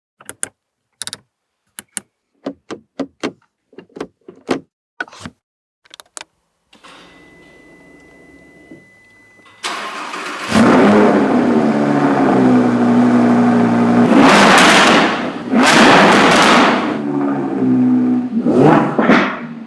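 A run of sharp clicks and knocks, then a quiet electrical hum with a thin steady tone, then the Audi R8 V10 Plus's 5.2-litre V10 cranks and fires with a loud flare about ten seconds in. It settles to a loud idle and is blipped sharply several times near the end.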